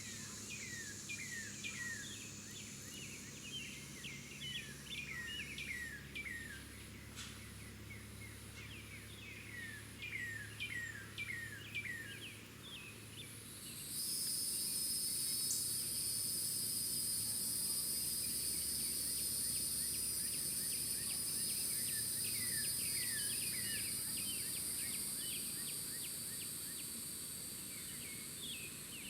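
Songbirds giving series of short down-slurred chirps. Halfway through, a loud, steady, high-pitched insect drone starts abruptly and holds until it fades near the end.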